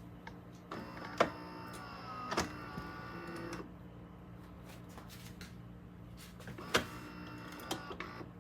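Fully automatic espresso machine at work: a steady low hum, with a motor whirring for about three seconds and a few sharp clicks.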